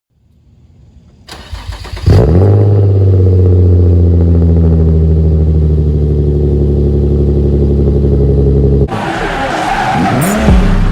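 Infiniti G35's V6 through a Tomei Expreme Ti titanium Y-back exhaust with test pipes: faint cranking, then the engine catches with a loud cold-start flare about two seconds in and settles into a steady, deep idle. Near the end the sound cuts to a different, noisier passage.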